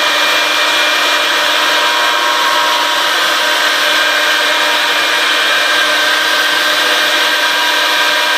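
Stemas CNC woodworking machine's router spindle milling wood: a steady cutting noise with a constant high whine.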